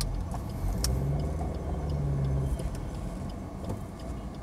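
Maruti Suzuki Baleno's 1.2-litre petrol engine and road noise heard inside the cabin as the car pulls slowly through a U-turn. A low hum rises slightly in pitch about a second in and drops away about two and a half seconds in, with a single click near the start.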